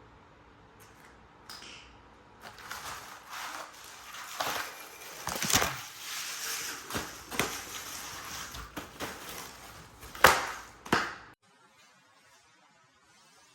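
A run of irregular knocks and clatter, like hard objects being handled and struck, with the loudest sharp knock about ten seconds in and another just after; the sound cuts off abruptly near the end.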